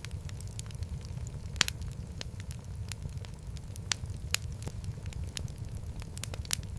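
Wood fire crackling in a fireplace: frequent sharp pops and snaps, one louder pop about one and a half seconds in, over a steady low rumble of the burning.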